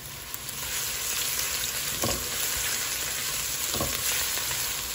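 Minced garlic and cumin seeds sizzling in hot oil in a nonstick pan, stirred with a silicone spatula, with a couple of light scrapes. The sizzle grows a little louder about half a second in.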